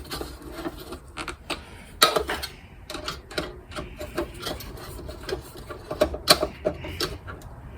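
Wing nuts being tightened down on a kerosene heater's metal housing: irregular metallic clicks and scrapes from the hardware and sheet metal, with two louder knocks, one about 2 seconds in and one about 6 seconds in.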